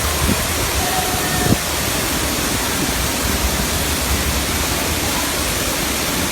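Steady, loud rush of water pouring down a tall waterfall, with a single brief knock about a second and a half in.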